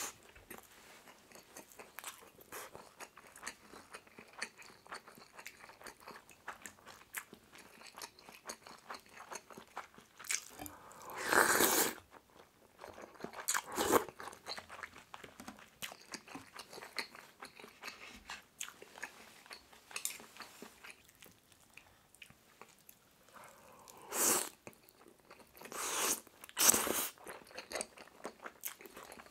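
Close-miked eating of pork kimchi stew with rice: steady wet chewing and small mouth clicks throughout, broken by four louder bursts of about a second each, two about halfway in and two near the end.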